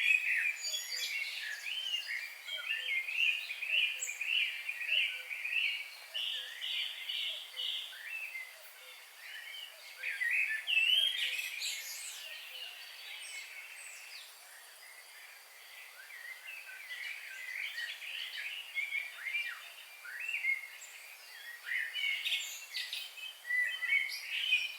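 Several wild birds singing and chirping over one another. One bird repeats a short note about three times a second for several seconds early on, and the calls thin out for a moment halfway through before picking up again near the end.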